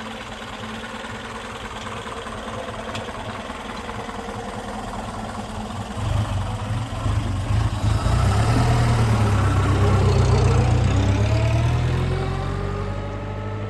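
1925 Vauxhall 14/40's 2.3-litre four-cylinder engine running steadily, then growing louder about six seconds in and rising in pitch as it accelerates, easing off near the end.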